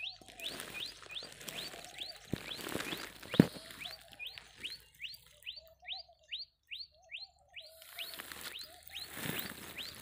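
Bird calling: a quick run of short rising chirps, about three a second, over a lower warbling note that comes and goes. A sharp knock stands out about three and a half seconds in.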